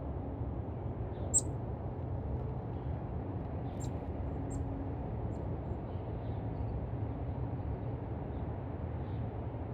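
A few short, high chirps from small birds, the loudest about a second and a half in, over a steady low rumble.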